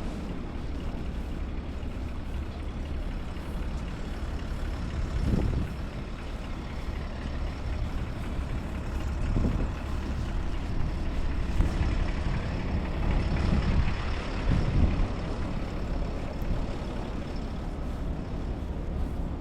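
City street traffic: heavy trucks passing with a steady low rumble, swelling louder three times as vehicles go by.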